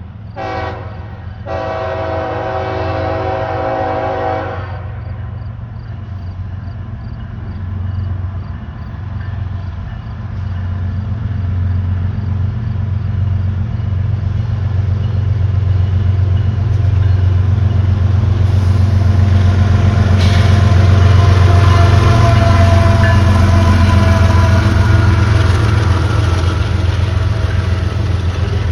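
CSX train's locomotive horn: one short blast, then a longer blast of about three seconds. After it the train's steady low rumble and rolling noise grow louder as it comes by.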